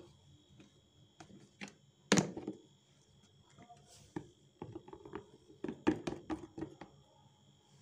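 Light knocks and clicks of items being handled and set down in a pantry cabinet, the loudest about two seconds in and a quick run of them between about four and a half and seven seconds in.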